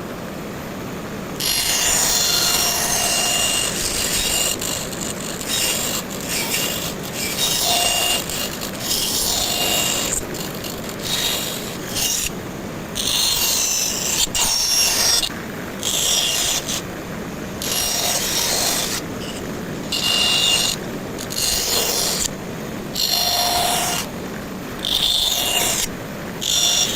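A woodworking tool working wood in repeated passes: about fourteen scraping strokes, each a second or two long with a thin high ringing tone, separated by short pauses.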